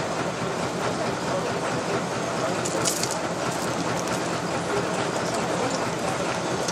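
Railway locomotive running, a steady rumble with a short high hiss about three seconds in.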